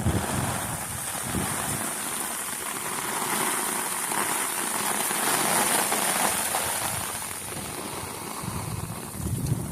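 Steady rain falling, an even hiss without separate strikes that swells slightly in the middle.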